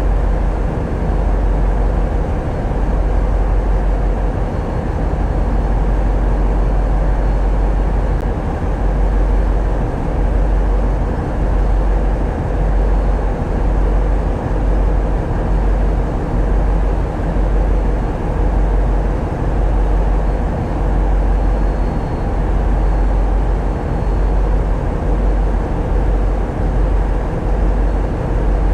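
Tugboat's diesel engines running steadily under way: a deep, loud drone that throbs unevenly in the low end.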